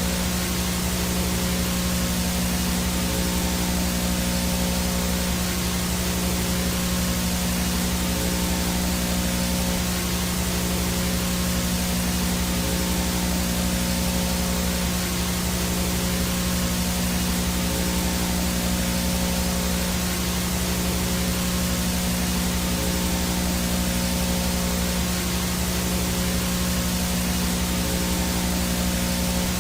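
VHS static noise, the no-signal sound of analog video: a steady hiss with a constant low hum and a thin high whine running under it, unchanging.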